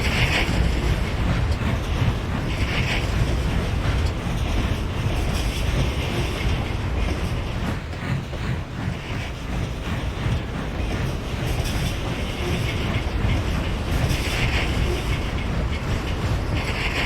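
A train running along the rails: a continuous rumble with wheel-on-track noise and a few brief hissing swells.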